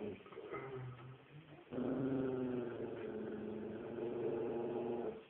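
A dog growling: a weaker rumble at first, then a long, louder growl starting about a second and a half in and stopping abruptly near the end.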